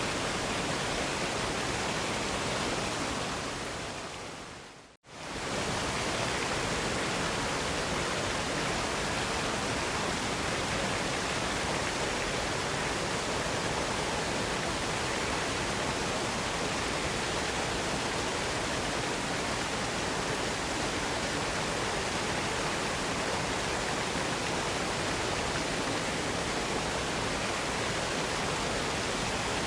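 Waterfall rushing in a steady, even wash of noise. About five seconds in it fades down to a moment of silence and quickly swells back to full level.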